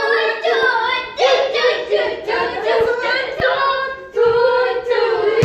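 Group of women's and children's voices singing together without accompaniment, in short phrases with brief breaks about a second in and near the end.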